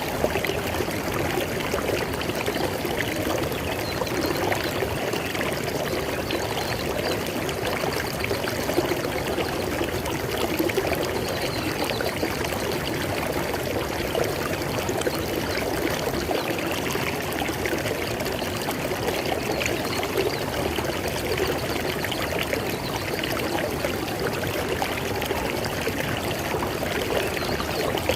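River water flowing over rocks: a steady rushing and burbling.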